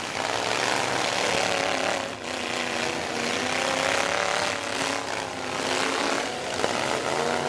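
Demolition-derby truck engines running and revving, a loud continuous din whose engine note rises and falls.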